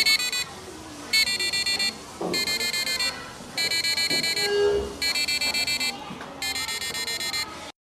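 Electronic buzzer of a touchless Arduino keyboard sounding high beeping tones in short, rapidly pulsed bursts, about one burst a second. The sound cuts off suddenly near the end.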